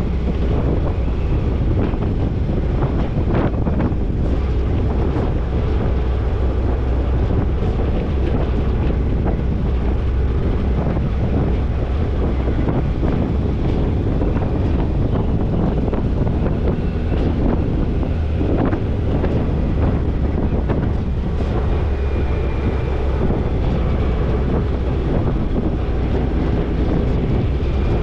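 Toyota Tercel 4WD wagon driving on a rough off-road trail: a steady low vehicle rumble with wind buffeting the microphone and scattered knocks and rattles.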